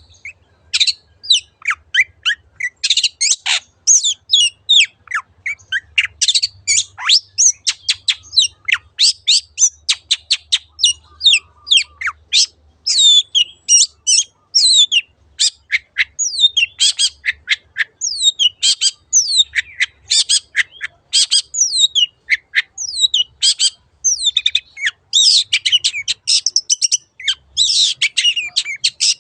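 Long-tailed shrike (cendet) singing a fast, busy string of sharp chirps, squawky notes and quick down-sweeping whistles, nearly without pause.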